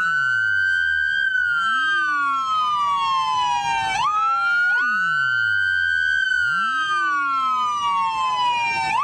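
Police car siren on wail: the pitch climbs quickly, holds, then falls slowly over a few seconds, starting over about every four seconds, with a second siren slightly out of step and a deep low sweep underneath.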